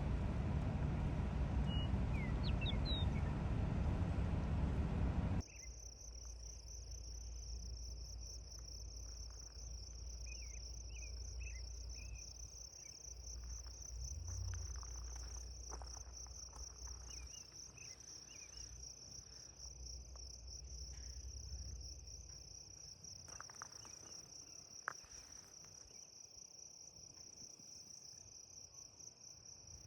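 A chorus of insects trilling steadily in a high, fast-pulsing buzz, with a few faint bird chirps. For the first five seconds a loud, steady rumbling noise covers it, then cuts off abruptly.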